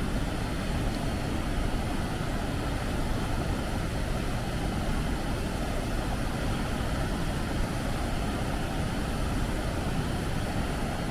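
Naena Falls' water crashing down in a continuous rush, a steady noise heaviest in the low range that does not change.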